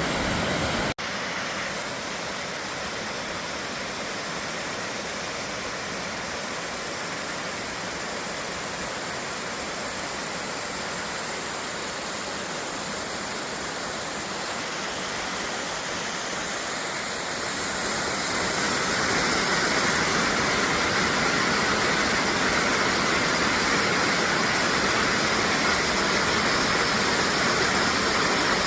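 Steady rushing of running water, like a stream or small waterfall, with a brief break about a second in and growing louder about two-thirds of the way through.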